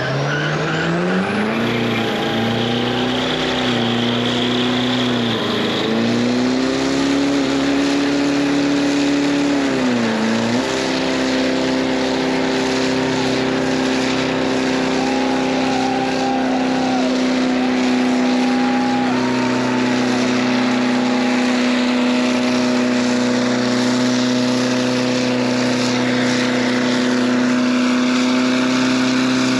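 An engine revs up in the first couple of seconds, dips briefly twice, then is held at a steady high speed for about twenty seconds.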